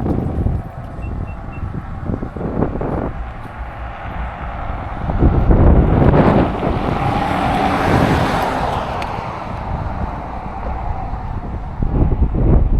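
Wind buffeting the microphone in gusts, with a vehicle passing on the road, its tyre noise swelling and fading over the middle few seconds.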